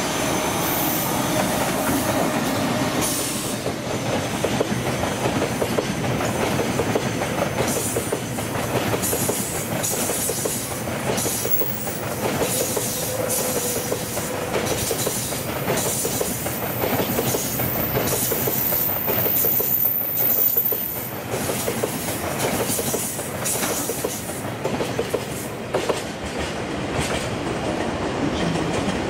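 Freight train of tank wagons behind an EF210 electric locomotive rolling past, wheels clattering steadily over the rail joints.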